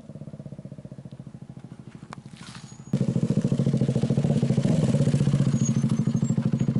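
KTM Duke 200's single-cylinder engine idling through a custom underbelly exhaust packed with glass wool and wrapped for more bass, a steady rapid pulse. About three seconds in it suddenly gets much louder and stays loud.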